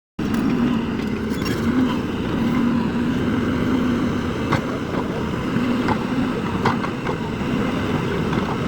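JCB excavator's diesel engine running steadily, with a few light knocks in the second half.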